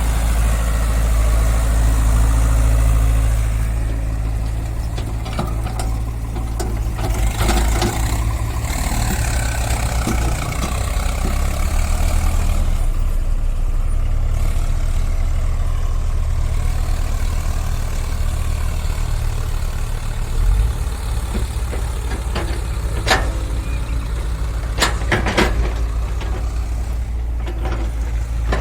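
Heavy diesel engine running steadily with a deep low drone that rises and falls a little under load, with a few sharp knocks in the second half.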